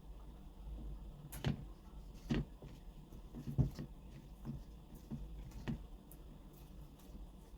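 Scattered light knocks and clicks, about one a second, of tools and grinder parts being handled on a workbench, over a faint low hum.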